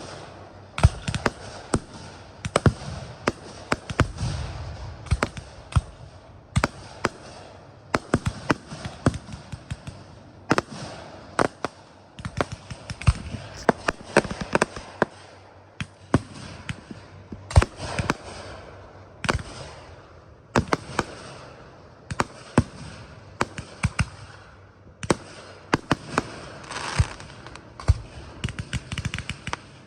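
Aerial fireworks going off in a steady barrage: many sharp bangs, often several a second, each trailed by crackle and hiss.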